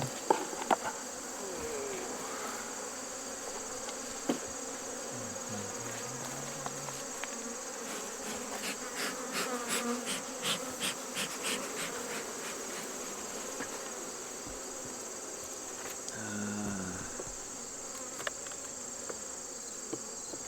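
Honeybees buzzing around an open hive, with single bees flying close past the microphone as low humming tones that rise and fall, over a steady high-pitched insect trill. A run of light clicks and scrapes comes around the middle.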